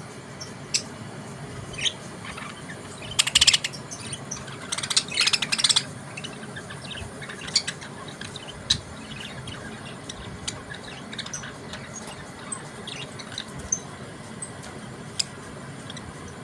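Budgerigars chirping: scattered short high chirps, with two louder bursts of rapid chatter about three and five seconds in.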